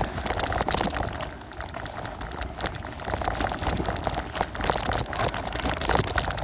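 Riding noise picked up by a phone taped to a bicycle's handlebars: a steady low rumble of tyres and wind on the microphone, with fast irregular rattling clicks from the jolting mount.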